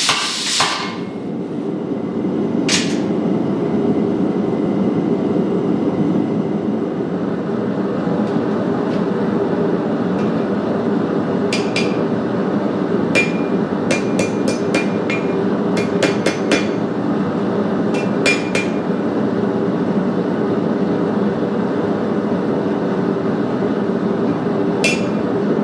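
Blacksmith's hammer striking steel on an anvil, each blow ringing. A quick flurry of blows stops just after the start. Single strikes follow, then a run of about a dozen in the middle and one more near the end, all over a steady low rushing noise.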